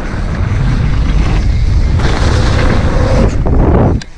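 Wind buffeting an action camera's microphone, with tyres rumbling over a dirt trail, as a mountain bike rides at speed. The rumble drops away sharply near the end.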